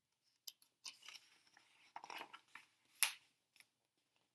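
Paper pages of a picture book being turned and handled: crisp rustles and a few small clicks, the loudest about three seconds in.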